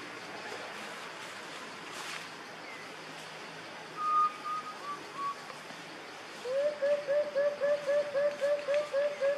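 Bird calling in the forest: a few short whistled notes about four seconds in, then from about six and a half seconds a fast, even run of short upswept notes, about four or five a second, over a steady background hiss.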